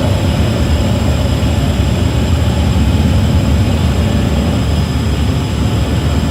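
Heavy workshop machinery running steadily: a loud, even low rumble with no breaks or changes.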